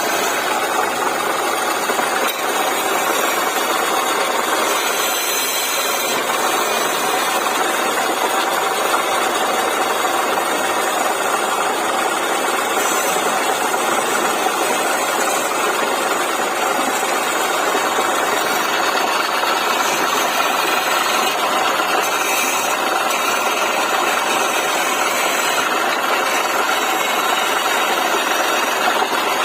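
Wood lathe running steadily.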